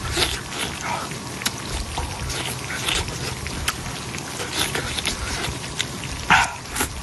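Street-food stall ambience: a steady hiss with scattered sharp clicks and clinks, and brief snatches of voices in the background, one louder just before the end.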